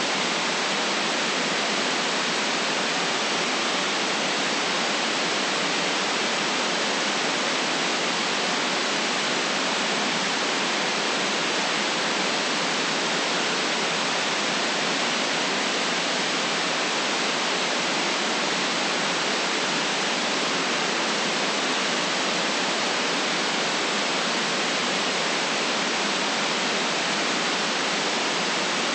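Steady white-noise hiss, even and unchanging, with no deep bass and a sharp cutoff at the top.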